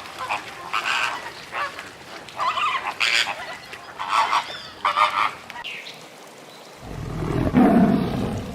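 Farm fowl calling: a run of short repeated calls, then a louder, lower sound near the end.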